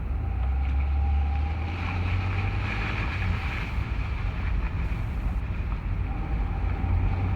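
2011 Ford F-150's 3.5-litre EcoBoost twin-turbo V6 running, with a pecking, tapping noise under the hood like a woodpecker, a new noise since a dealer visit.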